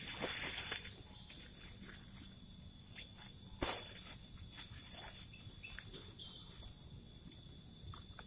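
Forest insects keep up a steady high-pitched chorus. It is broken by a rustle at the start and a few sharp clicks or snaps, the loudest about three and a half seconds in.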